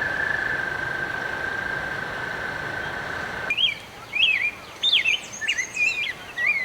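A steady high-pitched trill that cuts off abruptly about three and a half seconds in, followed by birds singing short, repeated whistled phrases that swoop up and down.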